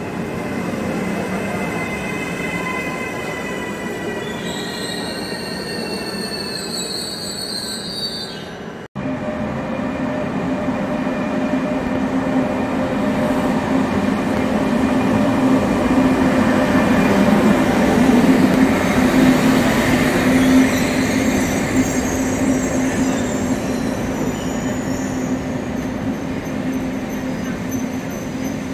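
For the first nine seconds or so, an electric metro train runs past the platform, its motor whine gliding up and down in pitch. After a sudden cut, a Frecciarossa high-speed electric train pulls into the station with a steady low hum and rumble that swell and then ease off, with faint wheel squeal near the end as it slows.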